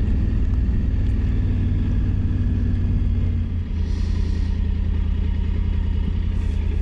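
Triumph Tiger 900 Rally Pro's three-cylinder engine running at low speed. Its note drops and settles lower about halfway through as the bike slows. A brief hiss follows.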